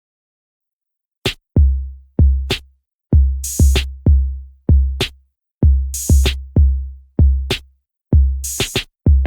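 Electronic drum-machine beat: deep kick drums in a steady pattern with a crash-like cymbal splash about every two and a half seconds, starting after about a second of silence.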